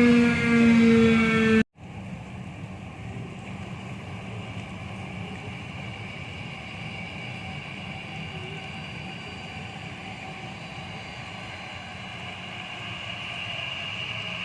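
Airliner engines: a loud droning tone with many overtones, sinking slightly in pitch, cut off abruptly about a second and a half in. Then a quieter, steady engine whine over a hiss, growing a little louder near the end.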